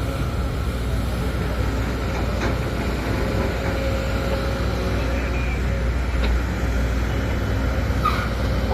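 Sumitomo SH210 excavator's diesel engine running steadily under work, with a few faint knocks over the top.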